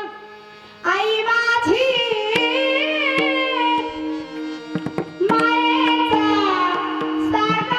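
Indian devotional kirtan music: a melodic vocal line with wavering, ornamented pitch over a steady drone, with scattered drum strokes. It starts quietly and comes in fully about a second in.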